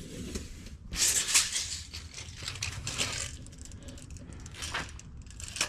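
A steel tape measure being pulled out and held against the forge stand to measure its height: the blade rattles and scrapes in two spells, then there are a few sharp clicks near the end.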